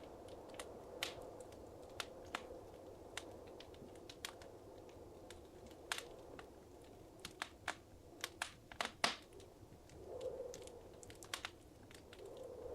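Wood fire crackling in a fireplace: a soft steady roar of flame with irregular sharp pops and snaps, a quick run of louder pops about two thirds of the way through.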